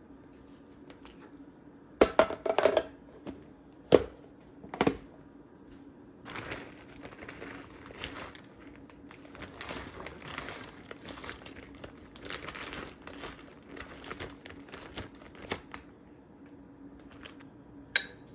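Kitchen handling sounds: crinkling and rustling, with a cluster of sharp knocks about two seconds in, single knocks at about four and five seconds, and another knock near the end. A faint steady low hum runs underneath.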